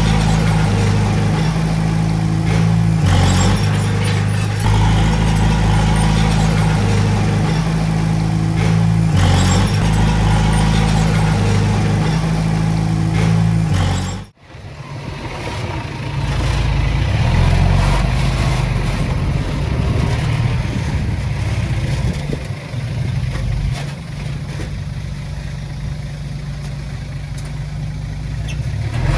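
Diesel engines of heavy earthmoving machinery running, steady with low engine tones. About halfway through the sound cuts out abruptly and comes back with a different, somewhat quieter engine note.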